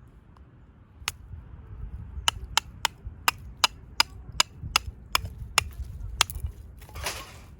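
Firewood being split by hand: a string of about a dozen sharp wooden knocks, evenly spaced at roughly three a second, as a blade is driven into the wood. A short rasping crackle of wood follows near the end.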